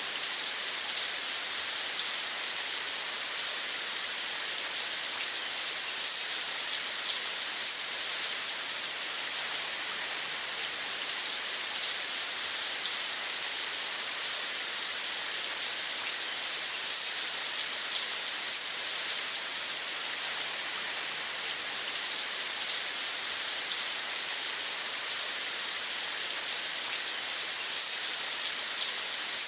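Steady rain falling: an even hiss of countless drops pattering on a surface, unchanging throughout.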